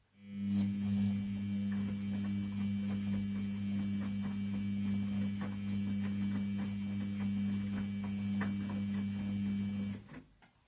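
Washing machine motor turning the drum during a wash cycle: a steady hum that starts abruptly, runs about ten seconds with light clicks and knocks, then stops suddenly.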